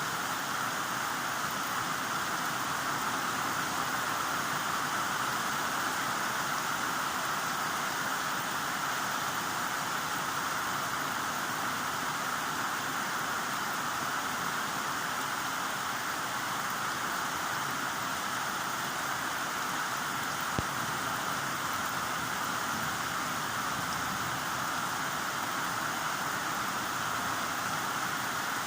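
Heavy rain falling steadily: an even, unbroken hiss of rain with no change in strength. A single small tick about two-thirds of the way through.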